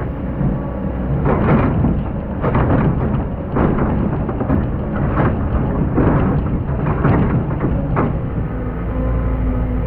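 Excavator running under load, its diesel engine droning steadily while the bucket digs into hard-packed sand with a series of rough scraping bursts about once a second, which stop near the end as the engine runs on.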